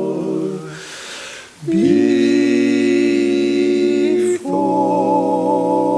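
Barbershop quartet singing a cappella in close harmony: a held chord fades out, a breath is taken, then a new chord is sustained for about two and a half seconds, and after a quick break another chord is held.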